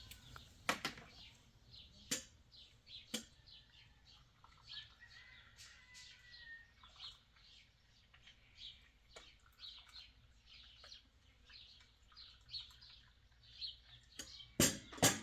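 Small birds chirping with many short, high calls throughout. Sharp knocks come a few times early on and louder near the end.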